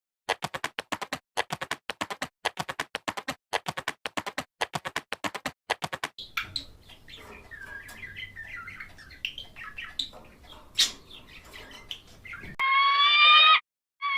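Birds calling: a quick run of sharp chirps, about five a second, for roughly six seconds, then softer twittering over a low hum, and near the end a loud drawn-out call rich in overtones.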